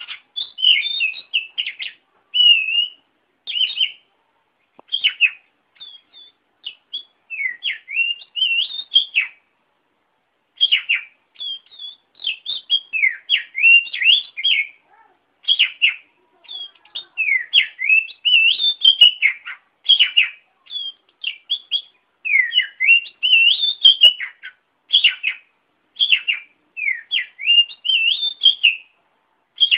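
Oriental magpie-robin (kacer) singing: a string of varied whistled and chirping phrases, each lasting a second or two, with short pauses between them.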